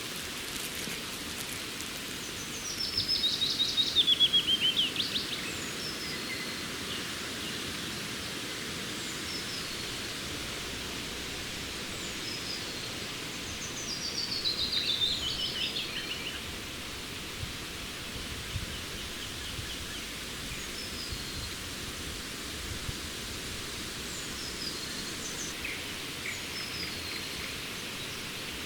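A songbird sings twice, each song a quick run of notes falling in pitch, over a steady hiss of outdoor ambience. Other birds chirp faintly now and then.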